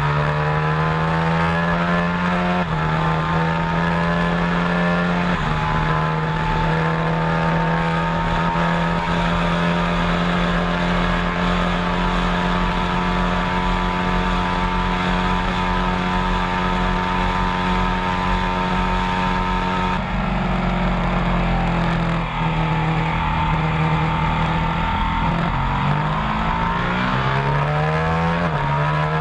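A vehicle engine running hard at high revs. Its pitch climbs at the start, then holds and jumps between a few steady levels several times.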